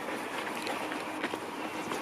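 Steady rushing forest ambience with a few faint, light ticks.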